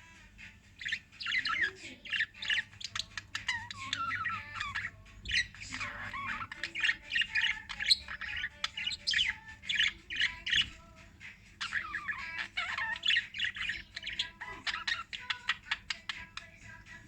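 Pet lovebirds chattering and squawking: dense runs of rapid, high-pitched chirps that start about a second in, with short pauses near the middle and near the end.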